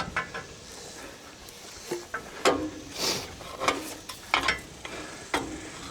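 Irregular metal clanks and rattles, about seven sharp knocks over a few seconds, some with a short ring: the winch hook and chain being handled while the line is moved to hook onto the bus's axle.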